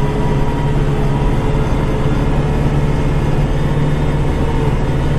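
Kubota diesel tractor engine running steadily under load while plowing snow, heard from inside the cab, with a steady whine over the drone.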